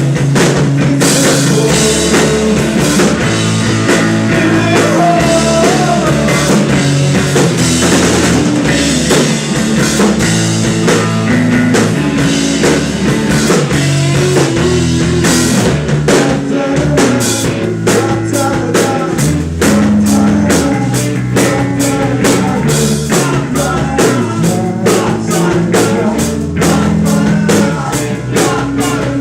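Live rock band playing loudly: drum kit, bass and electric guitar, with some singing.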